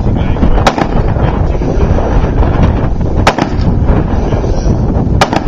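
Gunshots at a 3-gun match: single shots about a second in and about three seconds in, then two shots in quick succession near the end, over a steady low rumble.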